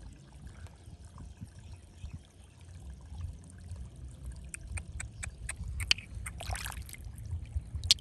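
Water pouring and trickling, with a run of small sharp clicks and knocks in the second half and a brief splash near the end.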